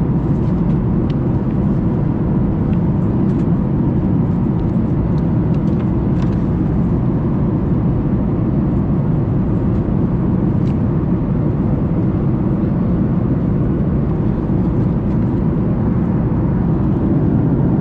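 Steady cabin noise of a Boeing 737 MAX 8 airliner in flight: an even, low rushing drone of airflow and CFM LEAP-1B engines, with a few faint clicks on top.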